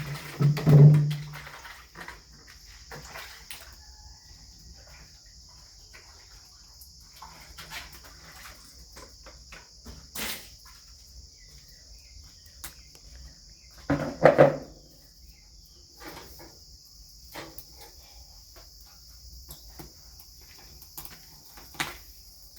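Crickets chirring steadily at a high pitch. Scattered clicks sound over them, with two louder short sounds: one near the start and one a little past the middle.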